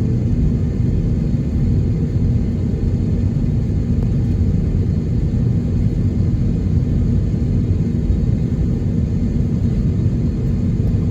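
Steady low rumble of an Airbus A321neo heard from inside the cabin, engines at idle during taxi.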